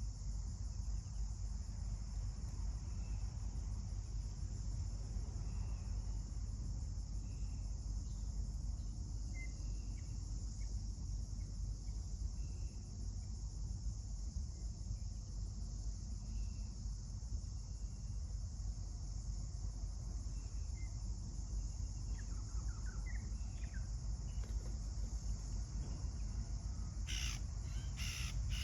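Steady high insect chorus over a low rumble, with scattered faint short bird chirps. Near the end come several loud, harsh, caw-like bird calls.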